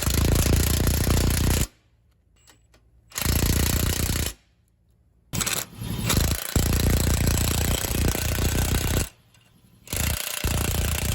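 Impact wrench tightening the nuts of exhaust pipe clamps on a new flex pipe section, in five rapid hammering runs of one to two and a half seconds, each stopping abruptly.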